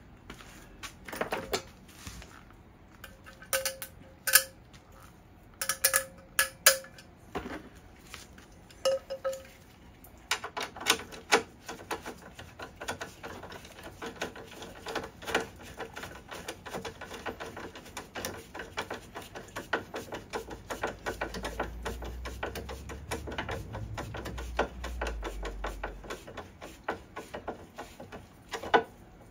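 Metal hand tools and parts clinking as a horn is bolted onto its bracket: scattered sharp clinks, some ringing briefly, in the first ten seconds, then a long run of rapid metallic clicking.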